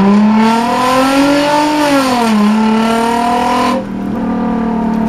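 Toyota Mark X V6 running through a one-off custom exhaust while driving: the engine note climbs under acceleration, drops about two seconds in, then settles into a steady drone. A rushing hiss over the note stops abruptly near the four-second mark.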